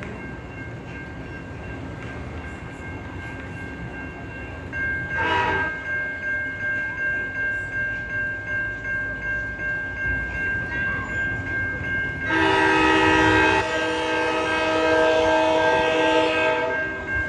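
VRE commuter train arriving with a low rumble. About five seconds in, a railroad crossing bell starts ringing at about two strokes a second, and a short horn blast sounds. Around twelve seconds in, the locomotive's multi-tone horn sounds one long blast lasting about five seconds.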